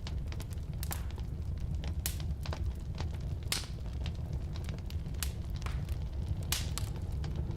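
Firewood burning in a fireplace: a steady low rumble of flame with irregular sharp crackles and pops, a few louder pops among them.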